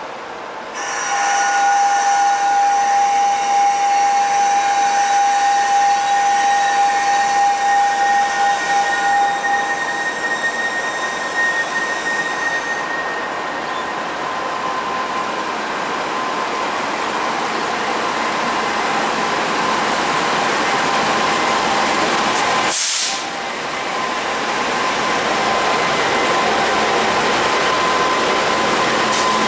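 Indian Pacific passenger train, led by NR class diesel-electric locomotive NR26, rolling slowly into a terminal platform. For the first ten seconds or so its steel wheels squeal with steady high tones, then it settles into a steady rolling rumble and hiss as the locomotive draws alongside. A short, sharp hiss comes about three quarters of the way through.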